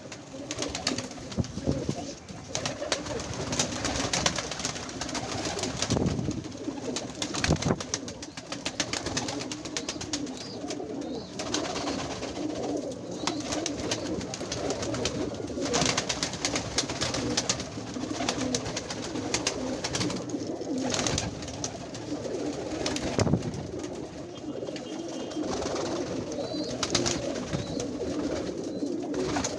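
A flock of domestic pigeons cooing together in an enclosed loft, a continuous low cooing chorus. Many short sharp rustles and clicks are mixed in throughout.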